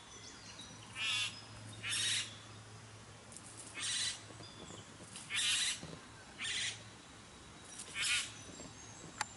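Male satin bowerbird giving harsh, rasping calls, six of them spaced irregularly about a second or two apart, with faint high whistles of other birds behind.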